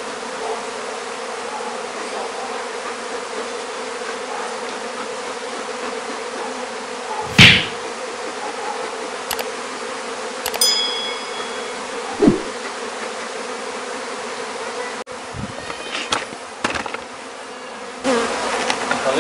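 A mass of honeybees buzzing in a steady hum. A single loud knock comes about seven seconds in, then a short high clink and a second, lighter knock a few seconds later.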